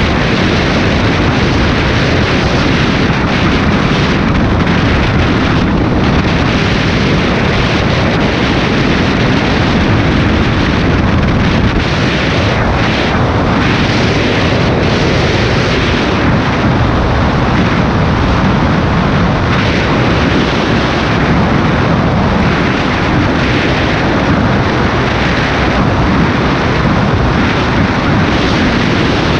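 Honda XR250 Tornado motorcycle on the move, its single-cylinder four-stroke engine running steadily under heavy wind rumble on the microphone.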